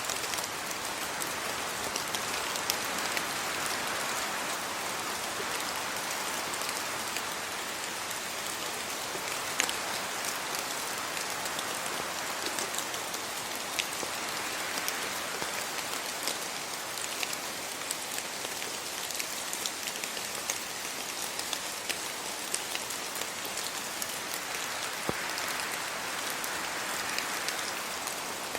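Steady rain falling, thick with the small ticks of single drops striking. Wind in the tree leaves swells and fades about three times, roughly ten seconds apart.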